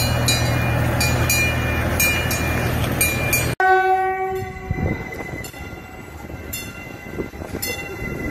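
A miniature park train running, with a steady low hum and regular clicking. About three and a half seconds in the sound cuts to a TEXRail Stadler FLIRT passenger train that sounds its horn for about a second, then runs past with a quieter rumble and clicks.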